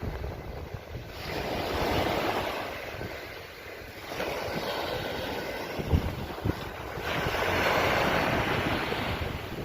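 Sea waves washing onto the shore in three surges a few seconds apart, with wind buffeting the microphone.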